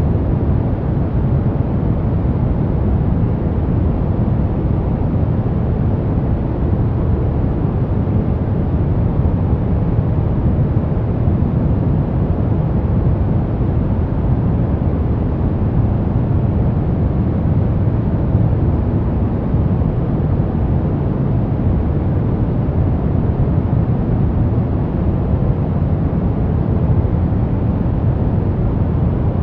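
Steady white noise for infant sleep, an unchanging deep, dull hiss heavy in the low end.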